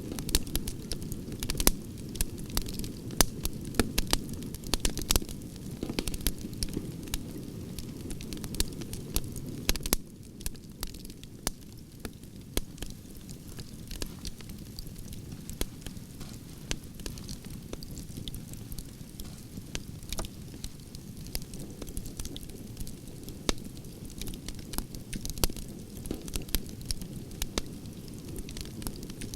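Campfire of burning logs crackling, with frequent sharp pops and snaps over a steady low rush of the flames; slightly quieter from about ten seconds in.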